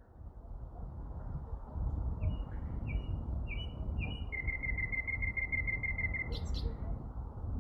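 A songbird singing: four short falling notes, then a rapid trill of about eight notes a second for some two seconds, ending in two sharp high notes. Beneath it is a steady low rumble that swells up over the first two seconds.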